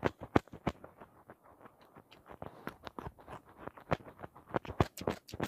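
Close-up chewing and crunching of fresh raw vegetables: rapid, irregular crisp crunches as the food is bitten and chewed.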